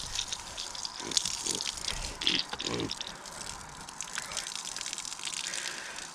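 Water from a hose running and splashing into a muddy pig wallow, with a few louder splashes in the first three seconds.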